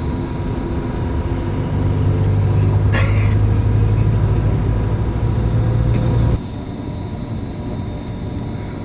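Bus diesel engine running under way, its low hum growing louder about two seconds in, with a short hiss about three seconds in; the engine sound drops abruptly after about six seconds.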